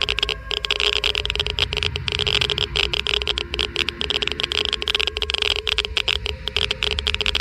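Geiger–Müller counter clicking rapidly at irregular intervals, many clicks a second, each click a detected ionizing particle. A steady low hum runs underneath.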